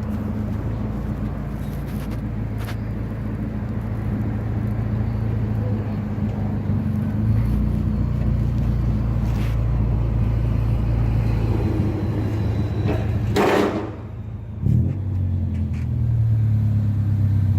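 Honda Del Sol engine and exhaust running steadily while driving, a low even drone with its newly fitted muffler, heard from inside the car. The drone grows a little louder about seven seconds in. About thirteen seconds in there is a short rushing noise and a brief drop in level before the drone picks up again.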